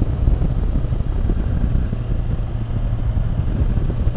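Can-Am Spyder three-wheeled motorcycle's engine running steadily while riding, a low rumble with a steady low hum that firms up about halfway through.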